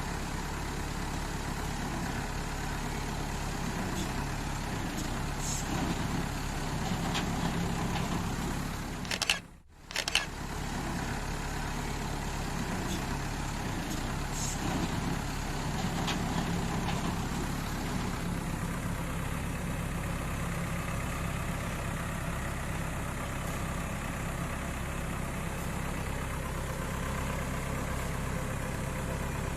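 Tow truck engine running steadily at idle. About nine seconds in the sound drops out briefly, then comes back with a couple of sharp knocks.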